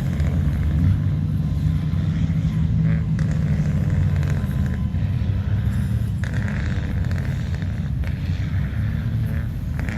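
Heavy truck engines running with a steady low rumble, the engine note strongest in the first few seconds.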